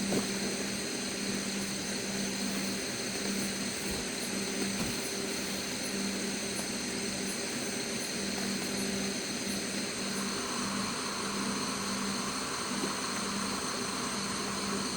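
Steady outdoor background of insects chirring in high, unbroken tones over a constant rushing noise and a low hum. A second, lower insect-like drone joins about ten seconds in.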